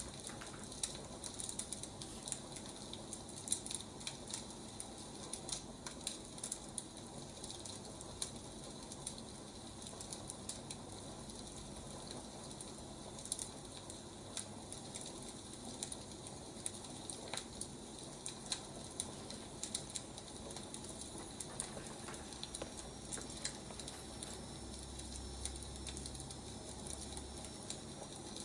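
Firewood burning in a fire, crackling steadily with frequent small sharp pops over a soft hiss.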